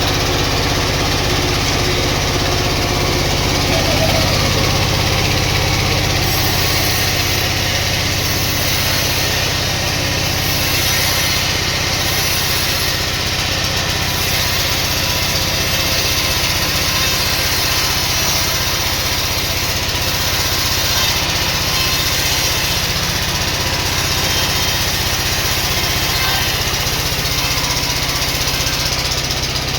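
Sawmill machinery running steadily: a low engine drone under a dense, even hiss.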